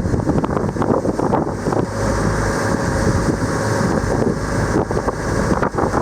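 Wind buffeting the microphone on a moving motorboat, over the steady rumble of the boat's engine and water rushing past the hull.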